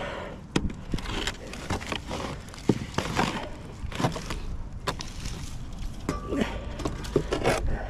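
Scattered knocks and scrapes of wooden beehive boxes and frames being handled, over a low steady rumble.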